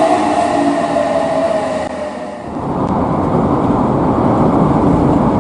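Electric train running. A motor whine falling in pitch fades about two seconds in, giving way to a steady low rumble of the train on the rails.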